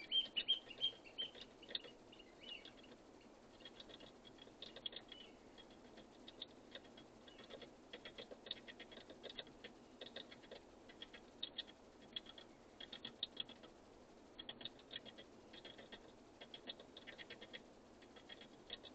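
Birds pecking at food on a feeder: repeated runs of light, quick clicking taps, with a few bird chirps in the first second or two.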